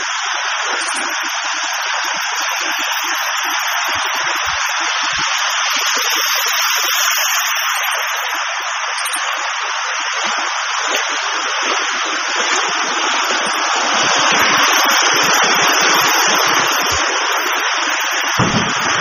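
Rushing floodwater: a steady, loud hiss of churning water that swells a little past the middle, with a low thump near the end.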